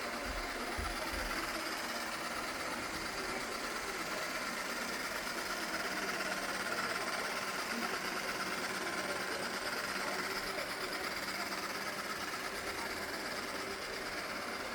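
Robot vacuum cleaner running, with a steady motor whir that doesn't change.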